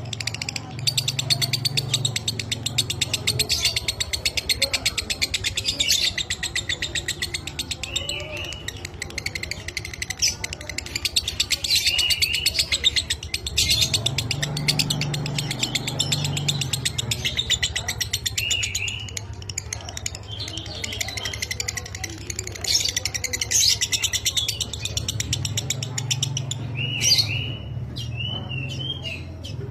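Lovebird chattering in long, rapid, high-pitched trills (the 'ngekek' song), broken by short curving chirps.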